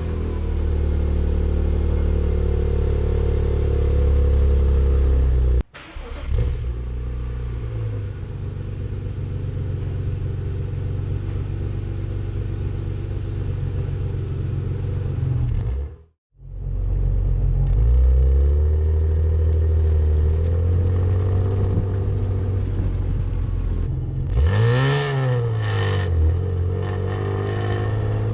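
BMW E36 M3's 3.2-litre S50B32 straight-six engine and exhaust under way, the engine note holding steady and then shifting pitch as the revs change. It breaks off twice, once with a short drop to silence, and near the end the revs rise sharply and fall back.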